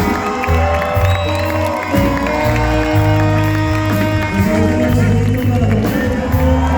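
Live rock band playing an instrumental passage of a song, with long held notes over a steady bass.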